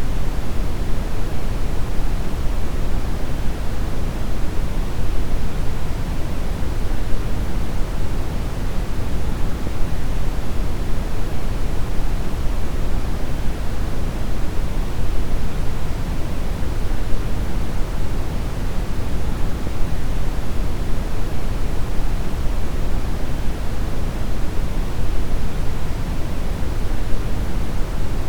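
Steady deep brown noise: an even, unchanging rumbling hiss, heaviest in the low end and thinning toward the highs.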